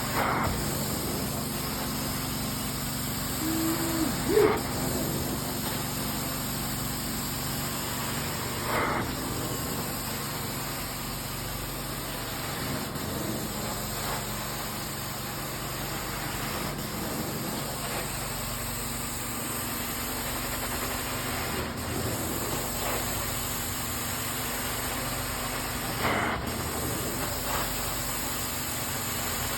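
Carpet-cleaning extraction machine running steadily: a constant low hum with a hiss, broken by a few short louder noises.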